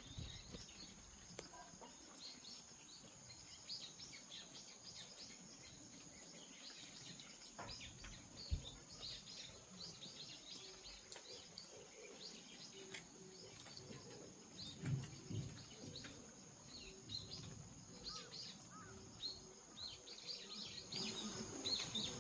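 Small birds chirping and calling in short, scattered notes, faint, over a steady high-pitched hiss.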